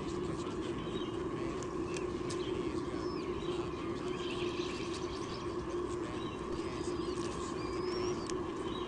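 Several short, high, thin bird chirps, mostly in the second half, over a steady low hum in the nest camera's audio, with a few faint ticks.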